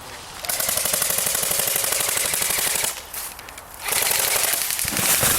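Airsoft gun firing on full auto: a long burst of rapid shots lasting about two and a half seconds, a pause of about a second, then a second long burst.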